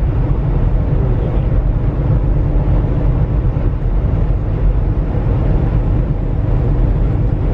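Steady low rumble of a semi truck driving on the highway, heard from inside the cab: engine drone mixed with road noise.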